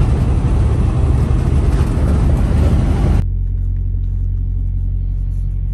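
Semi-truck cab noise: loud road and engine noise that drops abruptly a little over three seconds in to a steady low engine drone.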